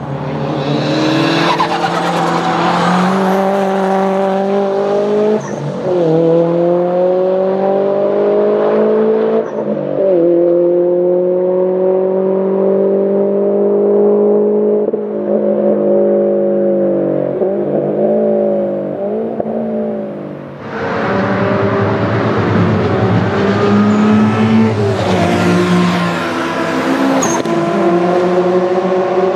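Subaru Impreza WRX STI's turbocharged flat-four engine accelerating hard on track, its pitch climbing and then breaking at each gear change, twice in the first ten seconds. It then holds high revs with some wavering. After a brief drop about two-thirds of the way through, it comes back louder and rougher.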